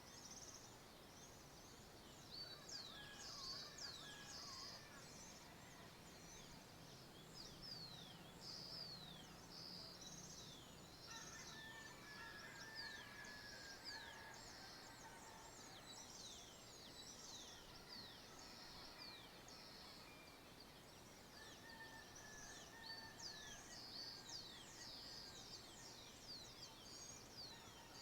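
Faint dawn chorus of many small birds: a steady stream of quick, high, falling chirps, with now and then a lower warbling phrase from another bird, over a soft rural background hiss.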